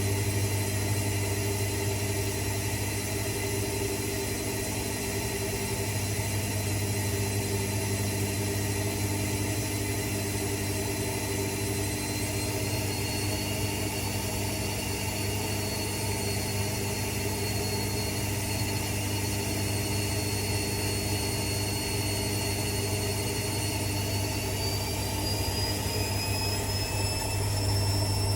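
Electric machine running steadily with a low hum and a high whine that rises in pitch twice, about twelve seconds in and again near the end.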